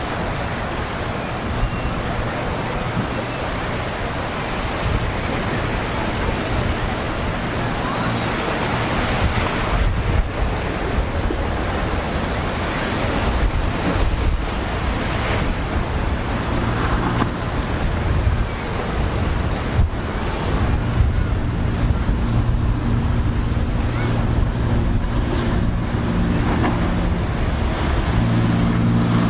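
Wind on the microphone and breaking surf make a steady rushing noise. A boat's engines drone underneath from about two-thirds of the way in, growing louder near the end.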